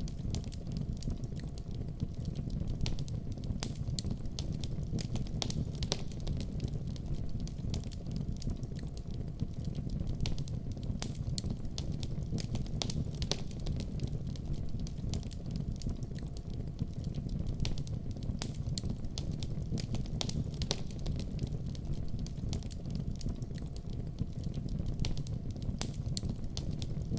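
Wood fire crackling steadily, with frequent irregular sharp pops and snaps over a low rumble of the flames.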